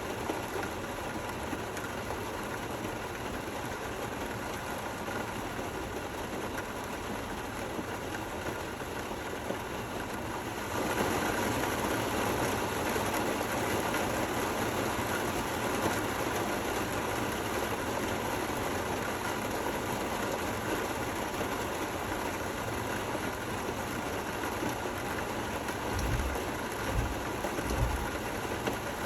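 Steady rain falling, an even hiss that becomes louder about eleven seconds in. A few low thumps near the end.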